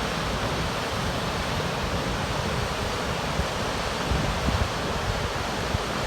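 Waterfall on the Paine River rushing steadily, with wind buffeting the microphone in brief low gusts, a few of them past the middle.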